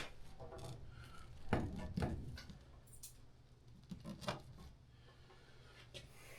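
A few light knocks and clicks of hand work, the loudest pair about a second and a half in, over a low steady hum.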